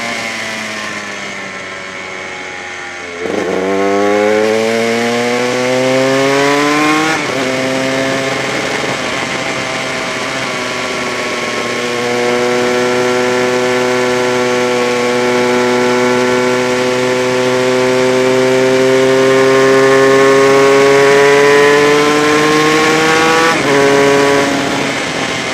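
Honda RS125 two-stroke single-cylinder racing engine, heard from an onboard camera, at racing speed. The note falls off the throttle, then rises sharply under hard acceleration about three seconds in. It breaks at an upshift around seven seconds, climbs slowly through a long pull, and drops near the end.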